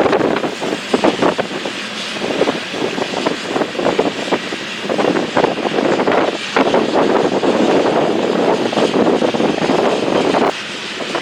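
Train rolling past: a steady rush of wheel-on-rail noise with many irregular sharp clacks.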